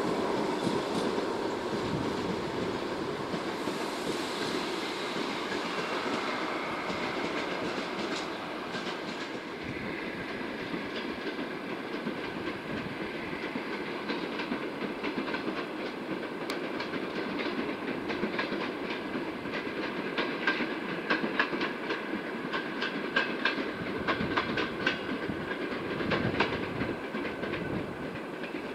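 Passenger coaches of a train rolling away along the track, their wheels clicking over rail joints and points, with a run of quick sharp clicks in the second half. The rolling noise grows slightly fainter overall.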